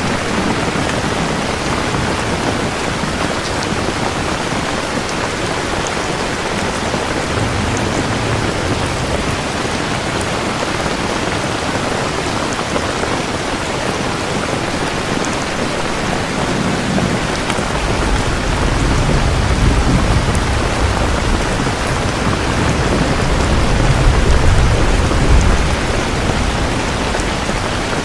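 Steady heavy rain falling, with a long low roll of thunder building from a little past halfway and peaking near the end.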